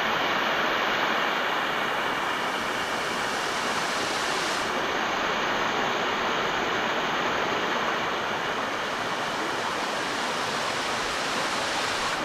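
Steady rushing of falling water from a waterfall, with a slight change in its hiss about four and a half seconds in.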